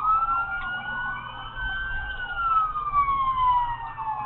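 Police car siren on a wail: it sweeps up quickly at the start, climbs slowly to its highest pitch about two seconds in, then slowly falls again, over a low vehicle rumble.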